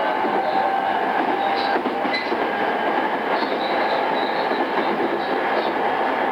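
Interior running noise of a JR East E217 series commuter train motor car, before its refurbishment, travelling at a steady speed. A constant rumble of wheels on rail carries a steady whine, with a few faint clicks.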